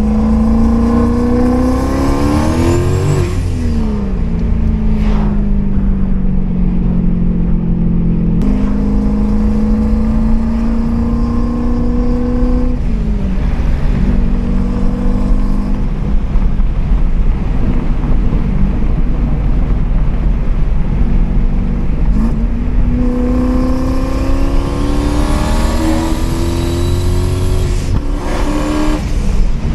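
Single-turbo Ford Coyote 5.0 V8 in a Mustang with a manual gearbox: the engine climbs in revs under load, drops sharply at a gear change about three seconds in, cruises steadily with another drop partway through, then pulls up through the revs again and drops at a shift near the end. A faint high whine rises along with the pulls.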